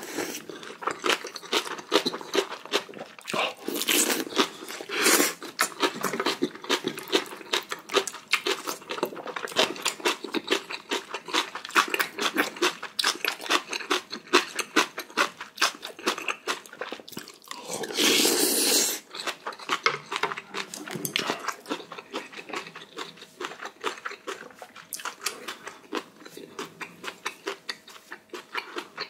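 Close-miked eating sounds: a person chewing spicy ramen and kimchi with a run of quick wet mouth clicks and crunches, and one louder, longer noisy sound about eighteen seconds in.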